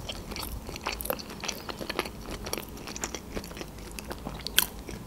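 A person chewing a mouthful of food with mouth closed: a run of small, irregular wet mouth clicks and soft crunches, one louder click near the end.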